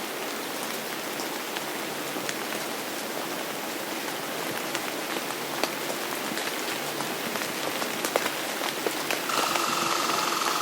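Steady rain falling on a hard surface, with single drops ticking sharply throughout. About nine seconds in, a steady whining hum joins the rain and the sound grows a little louder.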